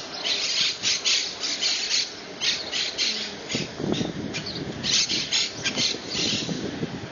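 A flock of parrots giving harsh, rapid squawking calls, several a second and overlapping.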